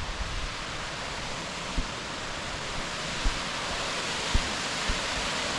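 A large waterfall rushing as a steady, even roar of falling water, with a few soft low thumps during it.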